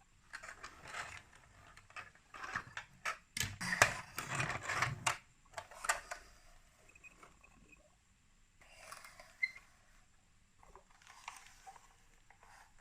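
Hands handling small plastic toy pieces: a quick run of clicks, knocks and rustling scrapes, busiest and loudest in the first half, then a few softer bouts of rustling.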